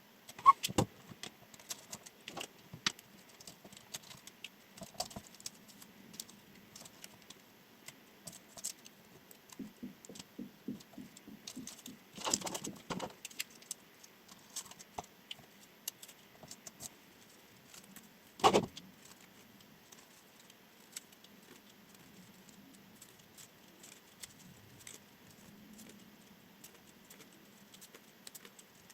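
Scattered clicks and taps of a chef knife being handled on a work surface, with a quick run of light strokes near the middle and one sharp knock about two-thirds of the way through.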